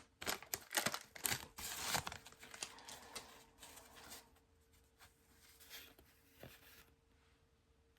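Trading-card pack wrapper being torn open and crinkled, with scattered small clicks of cards being handled; the noise is strongest in the first two seconds and grows fainter after.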